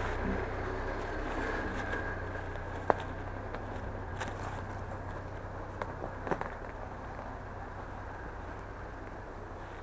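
Off-road vehicle engine running steadily, with a sharp knock about three seconds in and a few smaller knocks around six seconds, the sound slowly fading.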